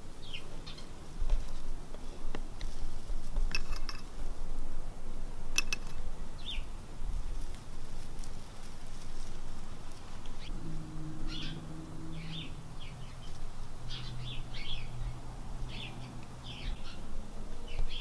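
Short, high bird chirps, scattered at first and coming more often in the second half.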